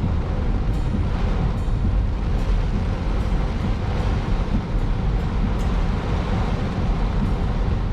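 Heavy thunderstorm rain and gusting wind beating on a car, a steady loud roar with a deep rumble underneath.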